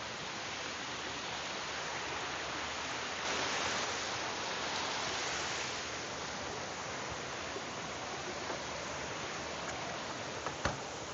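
Heavy rain and a rushing mountain stream making a steady, even hiss that swells a little a few seconds in. A single small knock sounds near the end.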